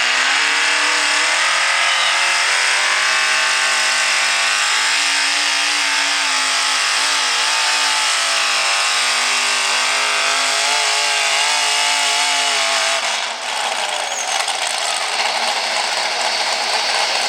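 Single-engine modified pulling tractor's engine at full throttle during a pull. Its pitch rises over the first few seconds, then holds high with a slight waver. About thirteen seconds in it drops off, leaving a rougher, unpitched engine noise.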